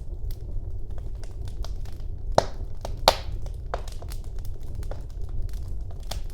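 Wood fire burning in a fireplace: a low steady rumble of the flames with scattered crackles and pops, two sharp snaps standing out a little past halfway.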